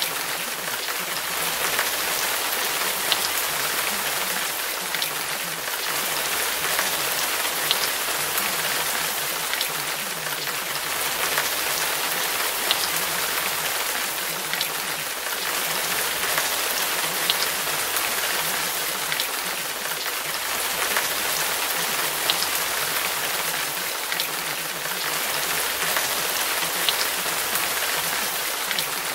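Steady rainfall, an even hiss of rain with scattered louder individual drops ticking through it.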